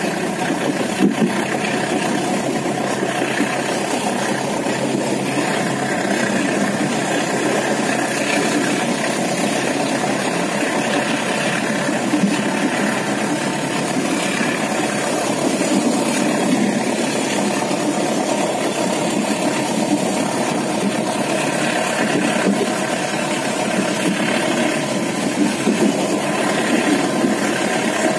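Steady running noise of a moving passenger train heard from inside an air-conditioned economy coach: an even rumble of wheels on rails with a faint steady hum.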